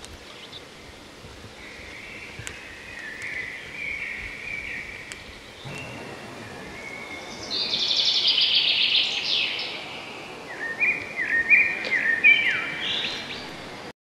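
Songbirds singing over a steady outdoor background hiss. A loud, fast trill comes about eight seconds in, then a run of short, repeated stepped notes near the end.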